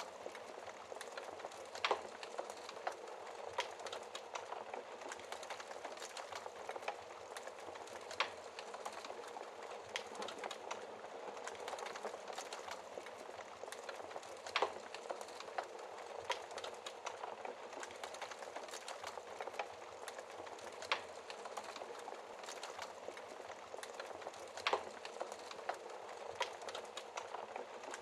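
Wood fire crackling in a fireplace: a steady soft hiss with frequent small crackles and a handful of sharper, louder pops scattered throughout.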